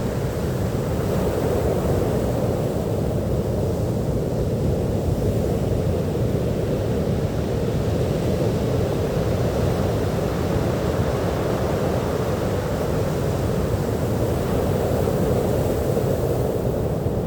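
Sea surf on a beach, a steady low rushing noise without distinct breaking waves.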